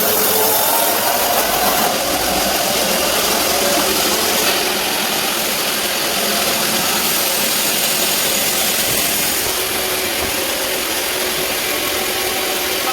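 Band sawmill running steadily: a loud, even machine noise with a strong hiss, shifting slightly about two seconds in and again near ten seconds.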